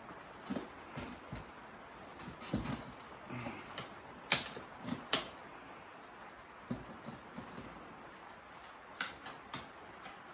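Steel tire irons prying a motorcycle tire bead over the wheel rim: scattered clicks and knocks of the levers working against the rim, with two sharper clicks about four and five seconds in.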